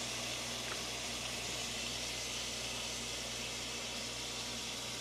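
Shrimp frying in oil in a pan: a steady, even sizzle.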